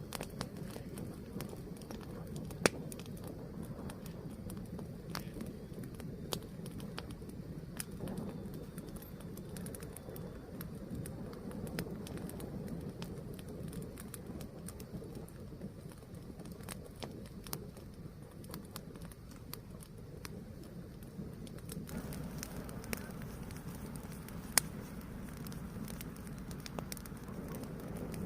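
Fire burning steadily, with a low rumble and hiss under scattered crackles and a couple of sharper pops; the hiss grows fuller about three-quarters of the way through.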